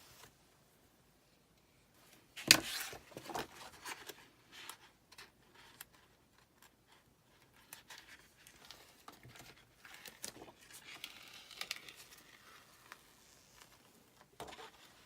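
Crafting handling sounds: a plastic chalk transfer sheet crinkling and being peeled, with scraping and small knocks. A sharp knock about two and a half seconds in is the loudest.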